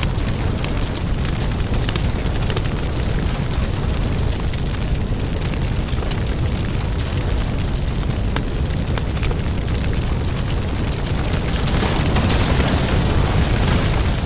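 Wood fire burning in a fireplace: a steady low rumble of flames with frequent sharp crackles and pops, swelling a little louder about twelve seconds in.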